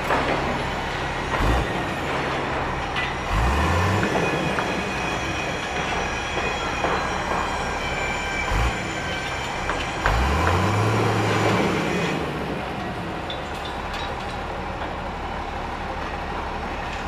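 Steady heavy machinery noise, with a heavy engine revving up twice, about three and ten seconds in, and a few short low thumps.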